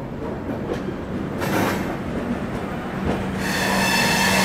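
Passenger train running on the track with a steady rumble and low hum. A brief rush of noise comes about a second and a half in. A high metallic squeal sets in about three and a half seconds in and grows to the loudest part, as the train slows into a station.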